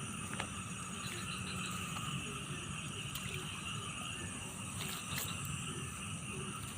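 Insects trilling steadily in several high pitches over a low steady rush, with a few faint clicks.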